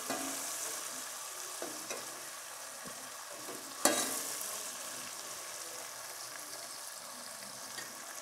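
Meat, onions and tomatoes sizzling in oil in a metal pot while a slotted spatula stirs them, with a sharp clank of the spatula against the pot about four seconds in and a few lighter scrapes. The tomatoes are being fried down in their own juice with no water added.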